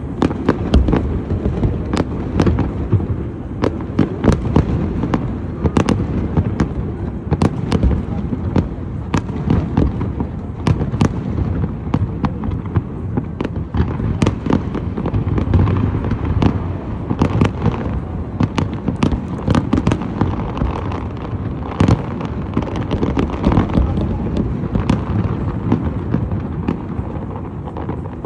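New Year fireworks display: a continuous barrage of sharp bangs and crackles in quick succession over a steady low rumble.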